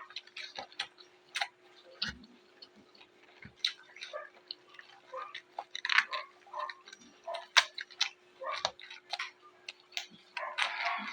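Crunching and chewing of raw vegetables close to the microphone: many short, irregular crisp crunches and clicks, over a faint steady hum.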